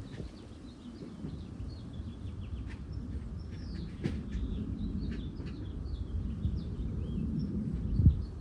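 Small birds chirping and twittering in quick, repeated short calls over a low, uneven rumbling background, with a single sharp thump near the end.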